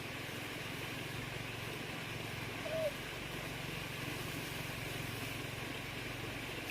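A motor running steadily with an even hum. About three seconds in there is one short, high chirp.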